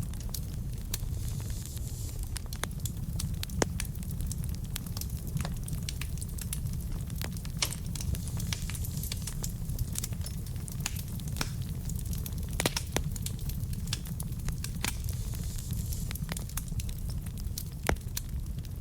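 Wood fire burning in a fireplace: a steady low rumble of flames with irregular crackles and sharp pops from the burning logs, a few pops standing out louder.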